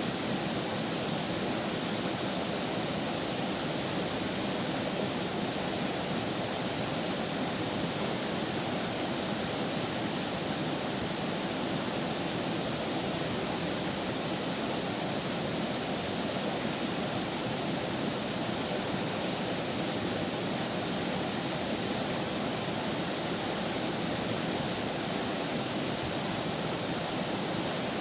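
River water flowing, a steady unbroken rush with no changes.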